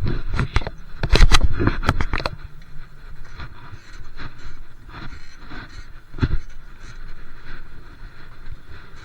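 Bicycle being ridden, rattling and knocking with low wind rumble: dense clatter for the first two seconds, then quieter scattered clicks and one sharp knock about six seconds in.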